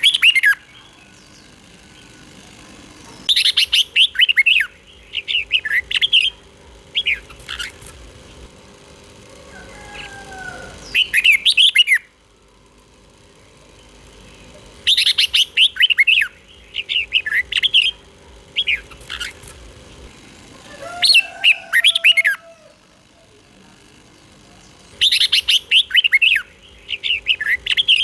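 Red-whiskered bulbul singing: short bursts of quick, chirpy, warbled phrases every few seconds. A faint steady hum runs underneath.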